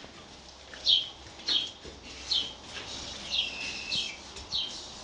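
A small bird chirping again and again: short, high, falling chirps a little under a second apart, with one longer call near the middle.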